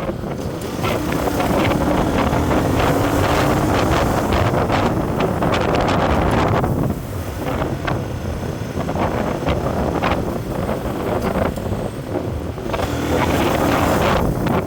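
A road vehicle driving along, with heavy wind buffeting the microphone. An engine note rises gradually for a few seconds near the start.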